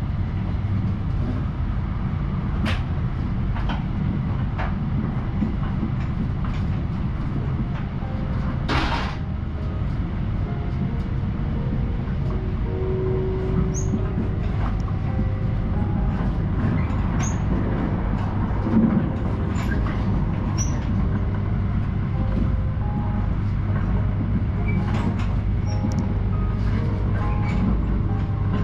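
Steady running noise of an Akita Shinkansen Komachi train heard from inside the passenger car: a continuous low rumble with scattered light clicks and a few faint short squeaks. A brief hiss comes about nine seconds in.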